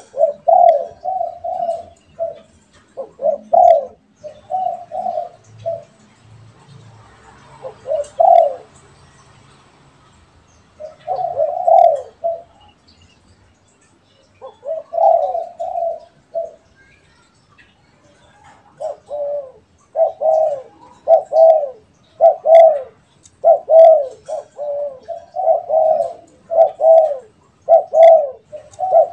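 Spotted doves cooing in repeated phrases of rolling, low coos, with short pauses between phrases; in the last third the phrases follow almost without a break.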